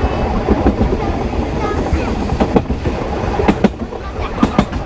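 Sóller railway's narrow-gauge electric train running, heard from the last car: a steady rumble of wheels on rail. In the second half, pairs of sharp clicks come about once a second as the wheels cross rail joints.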